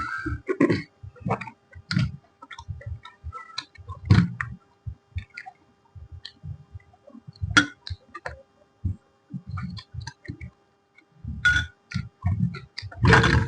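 Close-miked eating: irregular wet chewing with sharp crunches and mouth clicks, a louder crunchy burst near the end, over a faint steady electrical hum.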